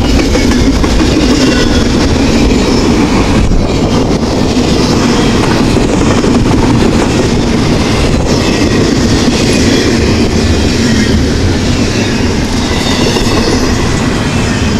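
Double-stack intermodal freight train cars rolling past close by at speed: a loud, steady rumble and rattle of steel wheels on the rails.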